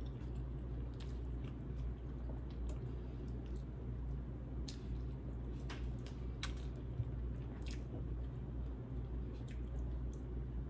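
Close-miked wet chewing and lip smacks of someone eating saucy chicken curry in coconut milk with rice: scattered short clicks and squishes over a steady low hum.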